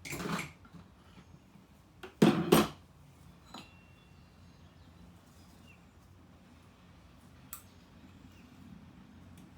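Metal engine parts and tools clinking and clattering as they are handled and set down: a short clatter at the start, a louder double clank about two seconds in, then a couple of faint clicks.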